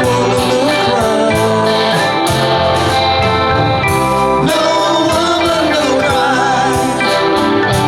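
Live rock band playing a song: guitars, bass and drums with singing, the melody bending and wavering in the middle.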